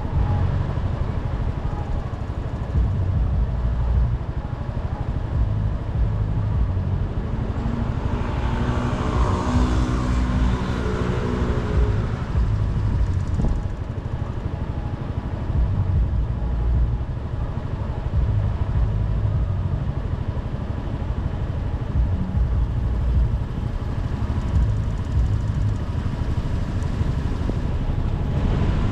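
Motorcycle riding along city streets: steady low engine rumble mixed with wind and road noise. About a third of the way in, an engine tone swells and falls away.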